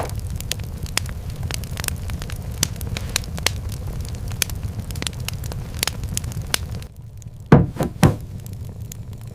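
Crackling fire with scattered sharp pops over a steady low rumble. Near the end come three heavy, low thumps in quick succession.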